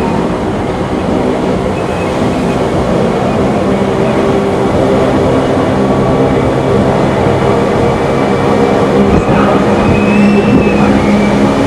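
Train running on the rails with a steady rumble and hum, and a faint high squeal near the end.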